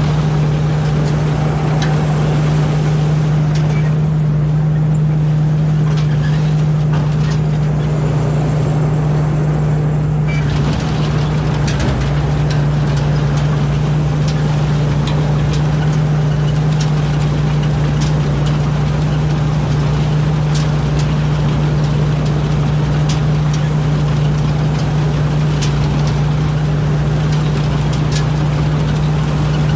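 Rice combine harvester's engine running steadily with a constant drone, with light ticks now and then.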